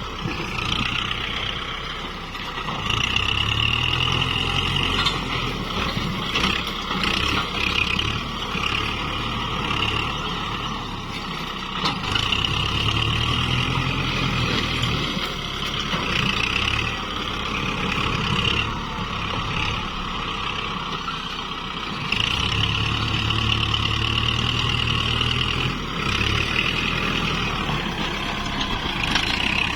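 Kubota MU4902 tractor's diesel engine working under load while plowing hard soil. It grows louder in three surges of a few seconds each, about 3, 12 and 22 seconds in, dropping back to lighter running in between.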